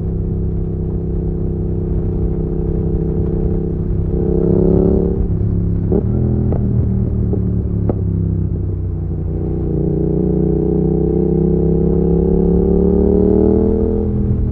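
Yamaha XSR700's parallel-twin engine through an IXRACE MK2 aftermarket exhaust, heard from the bike: running steadily, with a short rev about four seconds in, followed by a few sharp cracks as the throttle closes. From about nine seconds it pulls in gear with steadily rising pitch, which drops away near the end.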